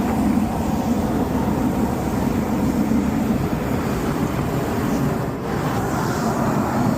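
Strong wind blowing across the microphone: a steady low noise that dips briefly about five seconds in.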